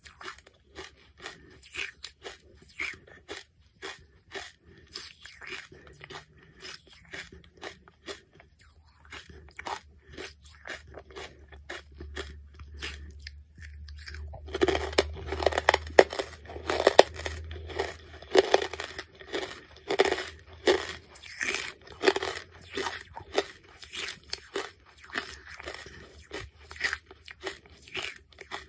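A person chewing lumps of charcoal close to the microphone, with a run of short, dry crunches. About halfway through a fresh piece goes in and the crunching becomes louder and denser.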